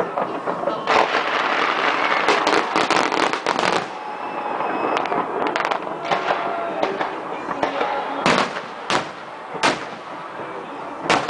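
Fireworks: a stretch of dense crackling about a second in that stops near four seconds, then four separate loud bangs in the second half.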